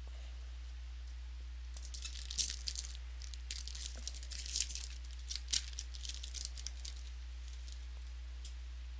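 A trading card pack's wrapper crinkles and rustles as it is handled, with irregular crackles and a few sharper clicks over about five seconds, starting about two seconds in. A steady low electrical hum runs underneath.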